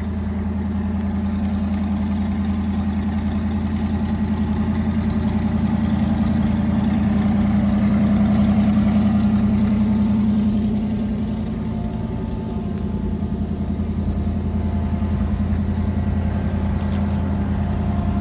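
An engine running steadily during corn harvest, its drone swelling to a peak about halfway through, then easing off before it settles.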